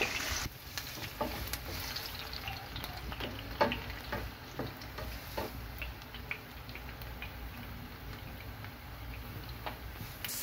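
Sliced onions and green chillies sizzling in hot oil in a nonstick frying pan, with scattered short taps and scrapes of a spatula stirring them.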